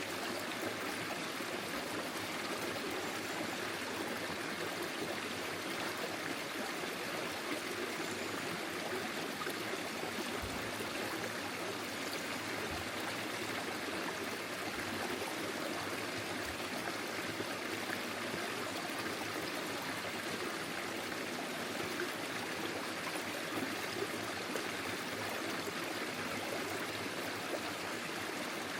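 Small forest stream flowing steadily, water trickling and gurgling over stones, with a few faint low thuds around the middle.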